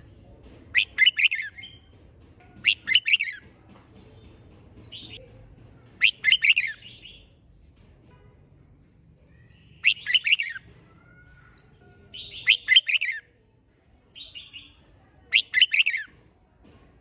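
Red-whiskered bulbul singing: short, loud warbled phrases about every three seconds, six in all, with fainter chirps between them.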